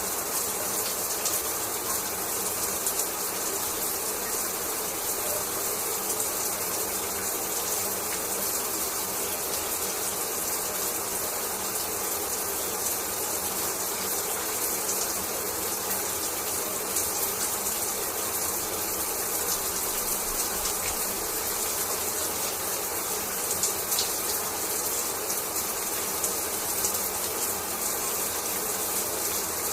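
Shower water falling and splashing steadily, an even hiss.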